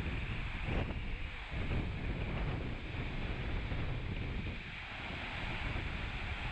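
Wind buffeting the microphone in gusts over a steady rushing hiss.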